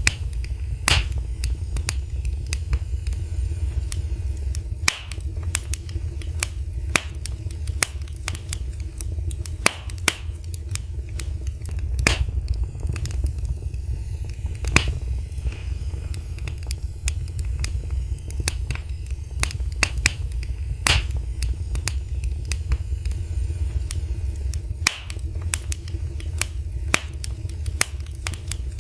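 Wood fire burning in a fireplace, crackling with irregular sharp pops and snaps over a steady low rumble of the flames. A few pops stand out louder than the rest, about a second in, around the middle and about two-thirds of the way through.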